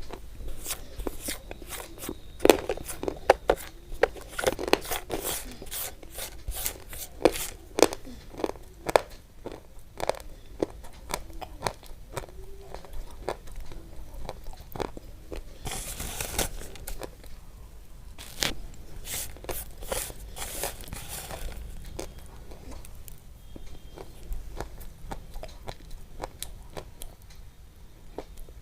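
Close-up crunching and chewing, a dense run of sharp crackly crunches that thins out in the last several seconds.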